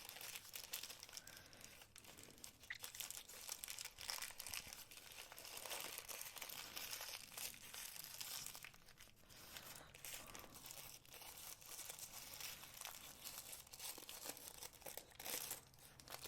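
Packing material crinkling and rustling continuously as it is handled and unwrapped, with many small crackles.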